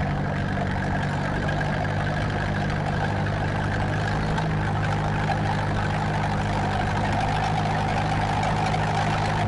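Tractor engine running steadily at an even speed, with no rise or fall in pitch.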